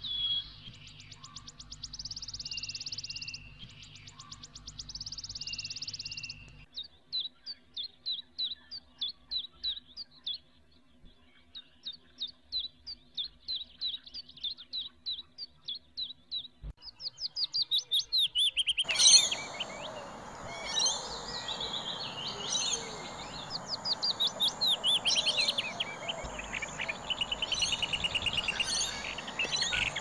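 Several birds calling: a couple of rapid trills, then a long run of short chirps repeated about twice a second, and from about two-thirds in a denser chorus of overlapping calls and twittering.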